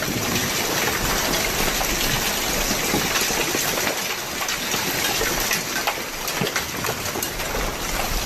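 Hailstones pelting down in a violent hailstorm: a dense, steady rush of noise made of countless small impacts.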